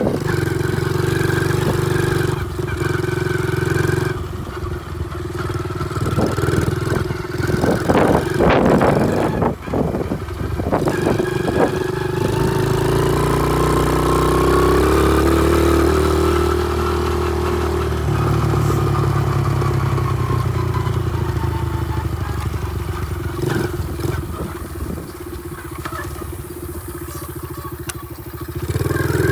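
Pit bike engine running as it is ridden. The revs climb and fall back around the middle, with a run of clattering knocks in the first third.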